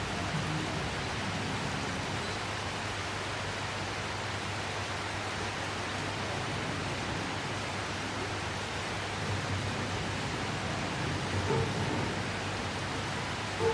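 Steady heavy rain falling, an even hiss with a couple of faint knocks near the end.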